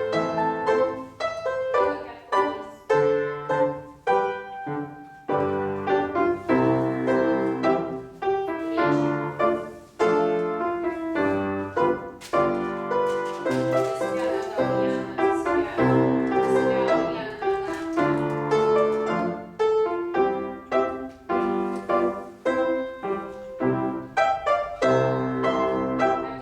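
Piano playing struck chords and melody notes in a steady rhythm, as accompaniment for a ballet class exercise.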